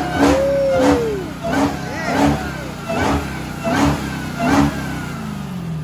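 Dodge Challenger Hellcat's supercharged HEMI V8, on its stock air intake, being revved in a quick series of about seven throttle blips, each rising and falling in pitch. Near the end the revs fall away.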